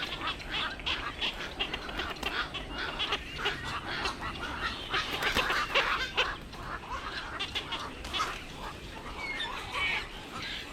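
Many water birds calling at once: a dense, overlapping chatter of short squawks and quacking calls, busiest around the middle.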